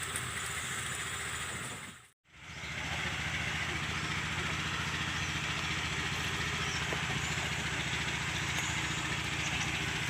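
A small engine running steadily at idle. The sound fades out briefly about two seconds in, then comes back unchanged.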